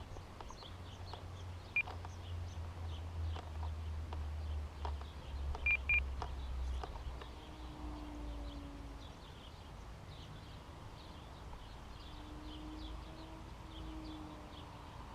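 Short electronic beeps from an RC radio transmitter, one about two seconds in and a quick double beep about six seconds in, over faint outdoor birdsong and a low drone that fades out partway through.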